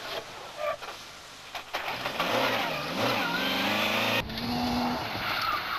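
Rally car engine revving up and down through the gears, with gravel and crowd-type noise at first. About four seconds in the sound cuts abruptly to another car's steadier engine note.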